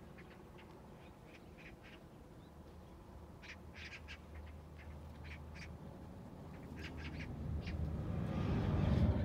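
Birds giving short, high calls, scattered and separate, over open-field background. A low rumble builds from about three quarters of the way in and is loudest near the end.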